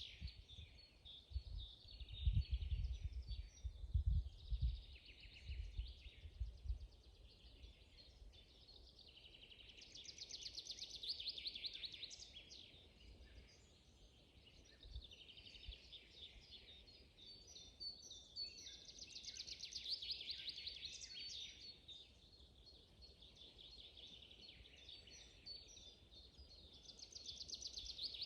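Songbirds singing: one bird repeats a fast, rapidly pulsed song phrase about every nine seconds, with other chirps between. In the first several seconds a few low rumbling bumps are louder than the birdsong.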